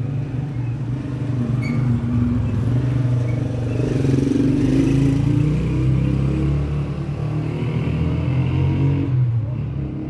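A motor vehicle engine running with a steady low hum, growing louder around the middle and easing off slightly near the end.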